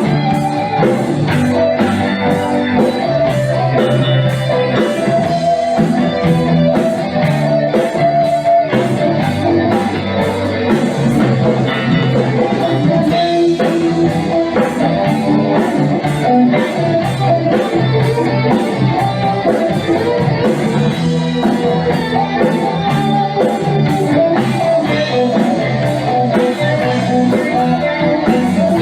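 Rock band playing an instrumental passage without vocals: guitar over bass, with drums keeping a steady beat.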